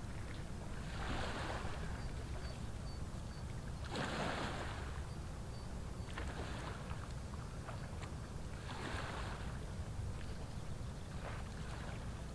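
Steady low drone of a passing inland ship's diesel engine, with surges of water swelling and fading every two to three seconds, typical of its wash breaking on the bank.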